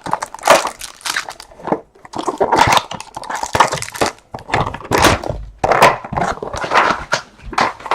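Trading-card packaging being torn open and handled: a run of irregular crinkling, tearing and crunching rustles of wrapper and cardboard.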